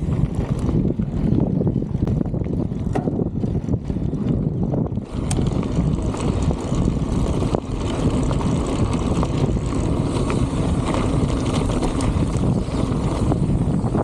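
Strong wind buffeting the microphone, a dense low rumble that gets brighter and fuller about five seconds in, with a few faint clicks.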